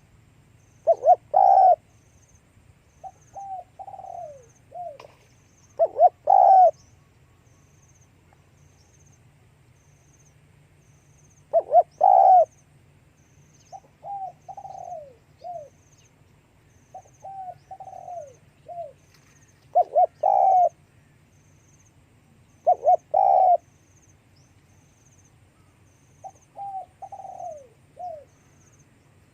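Spotted dove cooing in repeated phrases. Loud, short coo notes come about every three to eight seconds, with softer falling notes in between.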